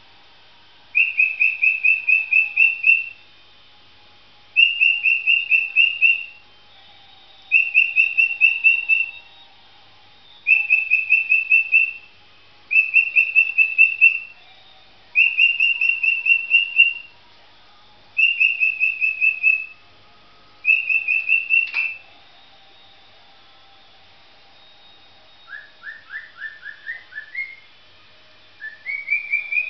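Pet parrot whistling the same phrase of quick, even notes over and over. Each phrase lasts about two seconds, with short pauses between, eight times in a row. Near the end it whistles a rising run of notes, then starts the phrase again, and a single click sounds partway through.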